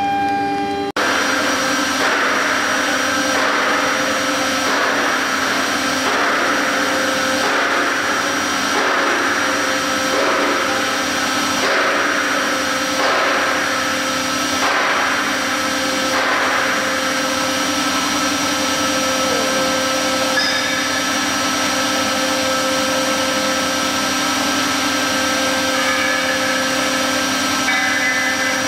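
CNC router's 3.5 kW air-cooled spindle running with a steady whine while the bit cuts fibreboard. The cutting noise swells and fades about once a second at first, then evens out.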